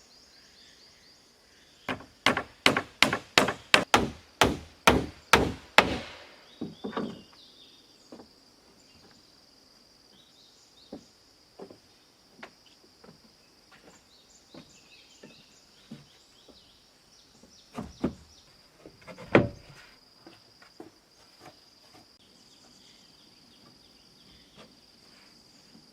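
Hand tool chopping into wood: about nine quick, even strikes, roughly two a second, that stop after a few seconds. Then come scattered light knocks and two heavier thuds about two-thirds through, under a steady high drone of insects.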